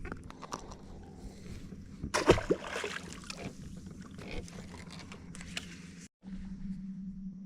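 Knocks and water noise in a small fishing boat, with one sharp loud knock about two seconds in and a steady low hum underneath.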